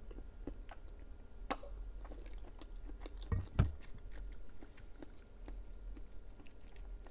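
Close-miked chewing: wet mouth clicks and bites scattered through, with a sharp snap about a second and a half in and a low thump about three and a half seconds in.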